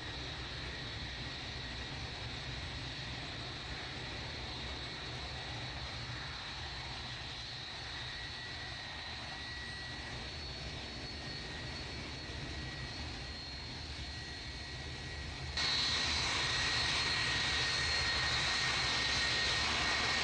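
Jet airliner engines running with a steady high whine over a low rumble. About three-quarters of the way through, the sound suddenly gets louder and brighter.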